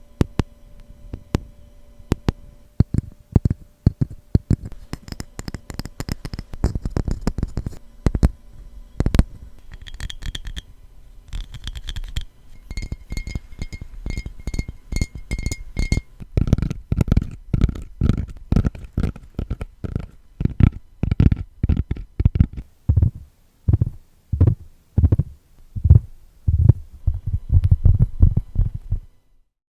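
ASMR tapping on a series of different objects, switching every few seconds. Some stretches have taps that ring with a clear, steady pitch; the later stretches are quick, dull, deep thuds.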